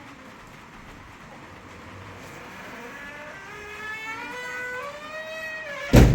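A motor revving up, its pitch rising steadily over a couple of seconds, then a loud thump just before the end.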